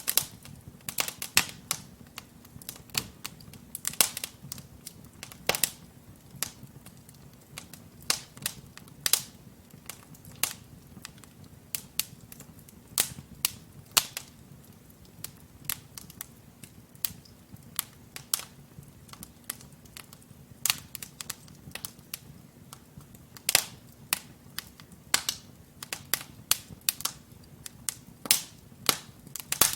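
Wood fire of burning logs crackling: irregular sharp pops and snaps, several a second, over a faint low rumble of the flames.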